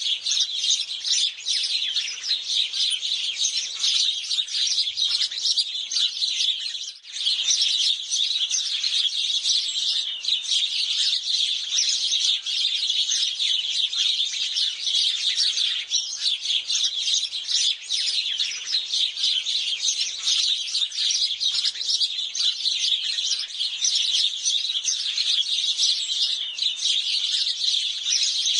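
A flock of house sparrows chirping continuously, with many short overlapping chirps and a brief lull about seven seconds in.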